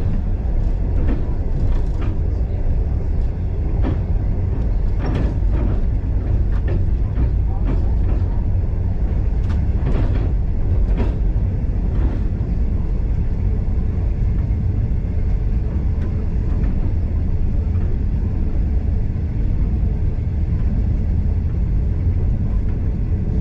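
Moving train carriage running on the track: a steady low rumble, with scattered short clicks and knocks over the first dozen seconds.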